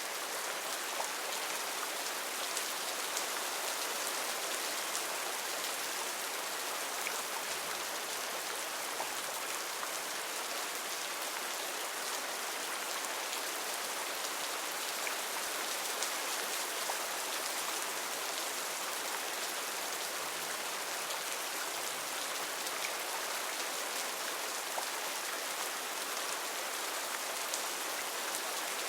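Heavy rain falling steadily on rainforest foliage: a dense, even hiss of drops with scattered nearer drop ticks.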